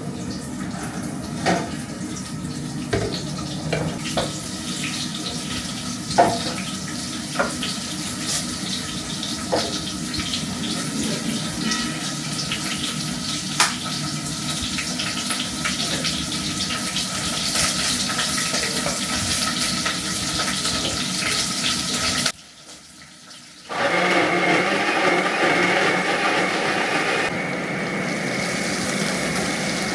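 Water running steadily from a kitchen tap, with occasional sharp clinks and knocks of dishes or utensils. Near the end it cuts off abruptly and a different steady, louder whirring sound with a high held tone begins.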